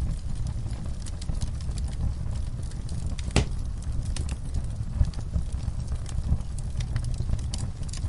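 Wood fire burning in a fireplace: many irregular crackles and small pops over a steady low rumble of the flames, with one sharp louder pop about three and a half seconds in.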